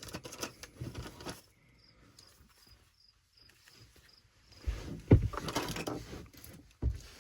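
Rustling, clattering handling noises of someone moving about and handling tools and pipe fittings, with a sharp knock about five seconds in and another near the end. In the quiet gap between, crickets chirp in short, evenly spaced pulses.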